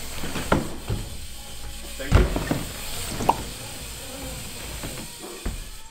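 BMX bike riding over wooden plywood ramps: tyres rumbling on the boards, with several knocks and thuds from the wheels and frame, the loudest about two seconds in.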